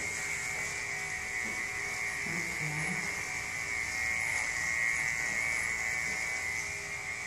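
Electric grooming clippers running steadily with a constant high whine while shaving a long-haired cat's body coat.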